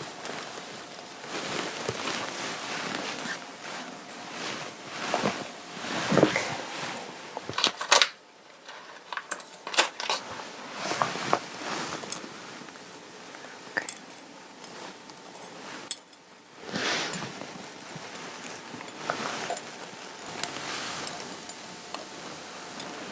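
Fabric rustling and rubbing as clothing is handled and adjusted, in irregular swishes broken by many small clicks and taps, with two brief pauses.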